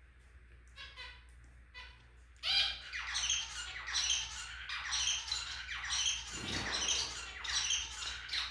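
Budgerigars giving a couple of short chirps, then from about two and a half seconds in a steady run of harsh, rapid squawking calls.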